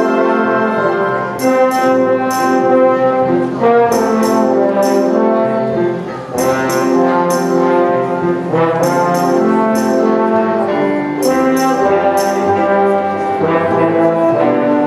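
Orchestra playing a Christmas arrangement, brass to the fore in full sustained chords, with short bright percussion strikes recurring in a rhythm.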